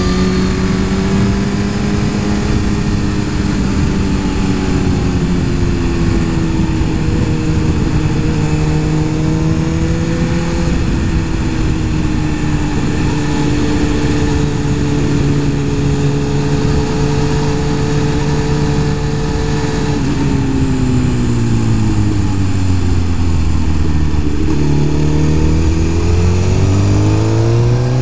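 Sport motorcycle engine running at steady revs under way over a constant rushing noise. About twenty seconds in it eases off and drops in pitch, then revs back up near the end.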